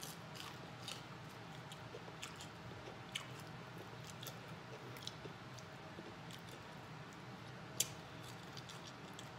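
Close-miked chewing of fried chicken, with scattered sharp clicks at irregular intervals and one louder click late on.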